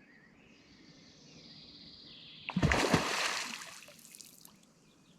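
A splash in water: faint noise builds, then a sudden loud splash about two and a half seconds in fades away over the next two seconds.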